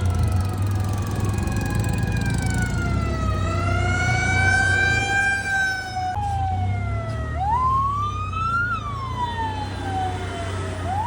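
Emergency vehicle siren wailing, its pitch sliding slowly down and back up, then about six seconds in switching to quicker rising-and-falling sweeps, over a steady low rumble of traffic.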